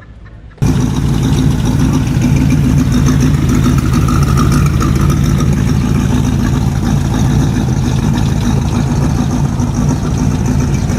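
Car engine running loudly at a steady idle, close up; it comes in abruptly about half a second in.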